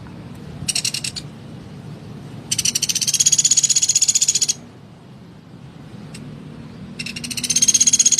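Common flameback woodpecker (pelatuk beras) calling in rapid rattling trills: a short one about a second in, a longer two-second trill a little later, and another starting near the end.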